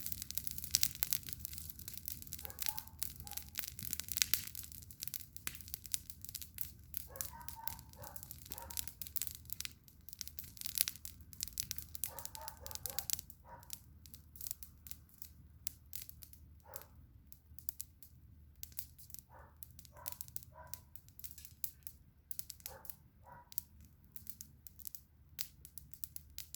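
Campfire of burning wood crackling and popping in quick irregular snaps, thick at first and thinning out about halfway through, with a few short pitched calls heard faintly behind it.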